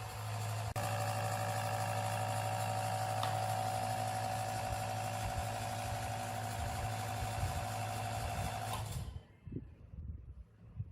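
A small electric motor running steadily with a low hum, a higher whine and a hiss, then cutting off abruptly about nine seconds in.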